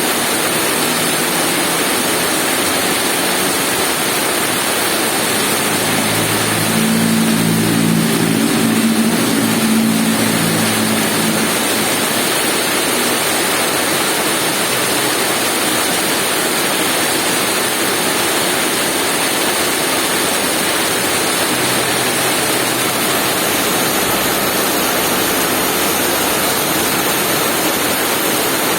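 Steady heavy rain. From about six to eleven seconds in, a vehicle engine's low hum rises over the rain and fades away.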